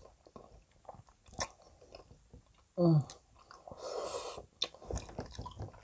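Close-miked chewing and slurping of spaghetti carbonara, with wet mouth clicks throughout. A short hum comes about three seconds in.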